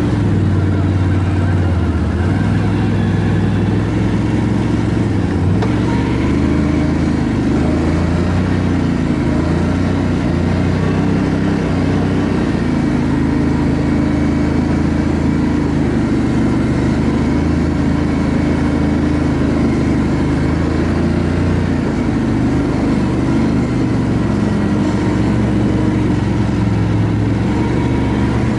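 ATV engine running continuously while riding, its note shifting up and down a little with the throttle.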